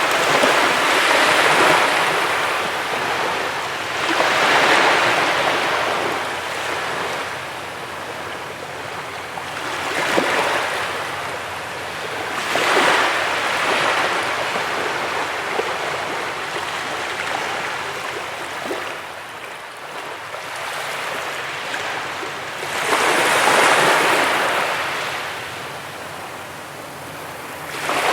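Ocean waves breaking on a beach: surf hissing, rising and falling as each wave comes in, with about five larger breakers, the last a long lull before one near the end.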